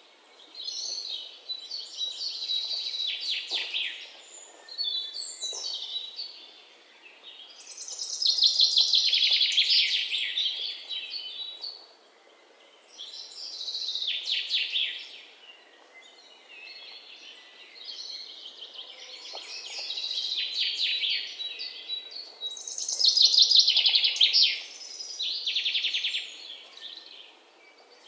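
Songbirds chirping and singing in repeated high-pitched phrases with short pauses between them, over a faint steady background hiss. The song is loudest about a third of the way in and again near the end.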